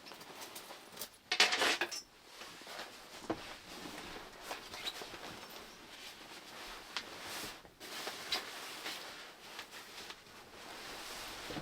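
Small clicks and rustling of things being handled, with one louder rustle of about half a second a little over a second in, over a faint steady hiss.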